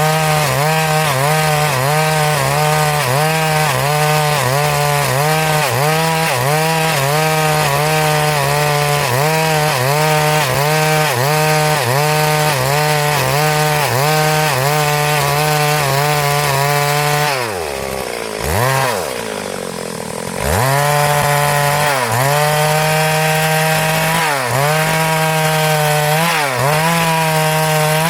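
Stihl MS382 two-stroke chainsaw ripping lengthwise through a hardwood log at full throttle, its pitch dipping rhythmically about one and a half times a second as it bogs under load. About two-thirds of the way through the revs fall away to idle for a few seconds, then the saw is throttled back up and cutting resumes.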